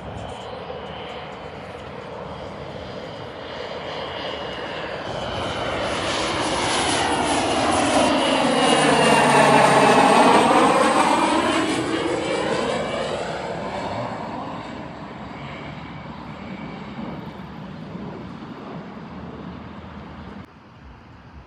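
A jet aircraft passing close by: its engine noise builds to a peak about ten seconds in, then fades, with a high turbine whine that drops in pitch as it goes past. The sound drops off abruptly near the end.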